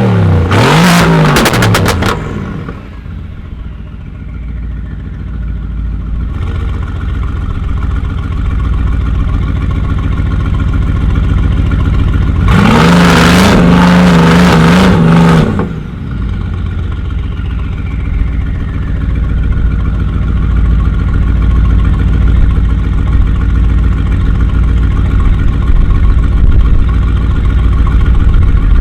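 Tuned car engine and exhaust revving: two quick throttle blips, then a low, steady idle, with one held rev of about three seconds near the middle before it settles back to idle.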